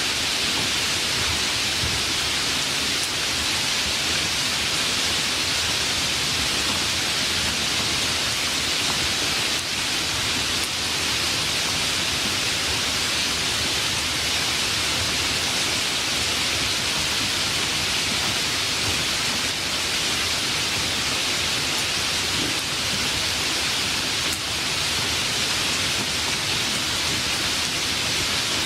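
Steady, heavy rain, a constant even hiss with no distinct drops standing out.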